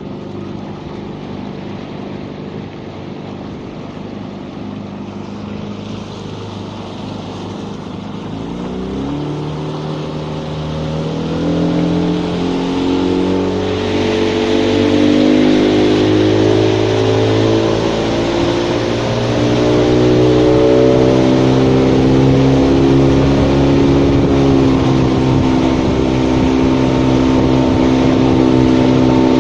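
Vehicle engine running steadily, then speeding up from about nine seconds in, growing louder as its pitch climbs in steps.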